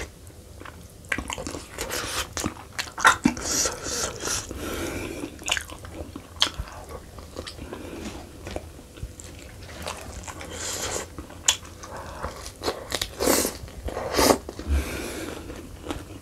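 A man chewing and biting mouthfuls of sheep's-head meat by hand, with irregular wet mouth clicks and short crunchy bursts.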